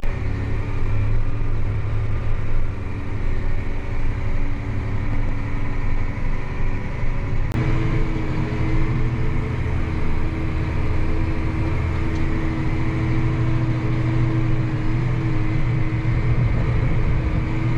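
Tractor engine running steadily, a constant drone with a steady pitch; about seven seconds in, the engine note changes abruptly and then holds steady again.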